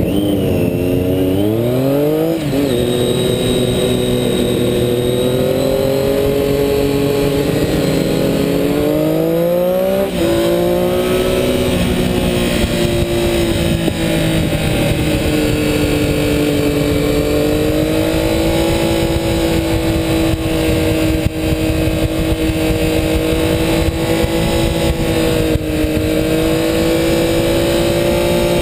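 Sport motorcycle engine at high revs on a racetrack. The pitch climbs under acceleration and drops at gear changes about two and ten seconds in, then stays high with small rises and dips through the corners.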